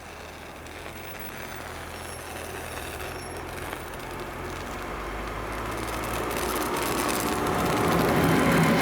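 Train approaching, a locomotive's low steady hum with rising rumble that grows steadily louder throughout.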